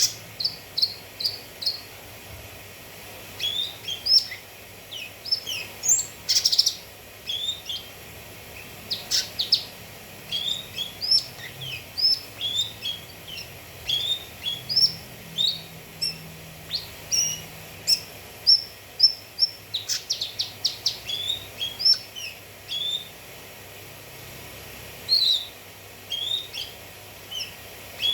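Cucak kinoi singing: a busy string of short whistled chirps and quick trills, some notes repeated in rapid series, with brief pauses between phrases.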